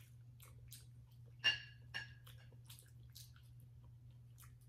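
Close-up chewing of a crispy tempura-battered sushi roll: soft crunchy clicks, with a sharper click that rings briefly about a second and a half in and a smaller one half a second later. A low steady hum runs underneath.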